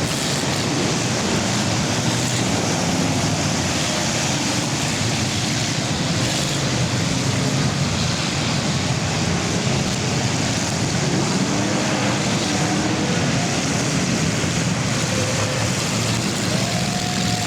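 Engines of many full-size cars racing at once: a steady, loud din, with an engine pitch rising and falling now and then as a car passes.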